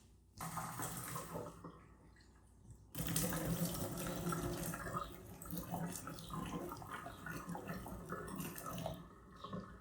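Water running from a tap into a sink: a short run at first, then a louder, steady flow for about six seconds from about three seconds in.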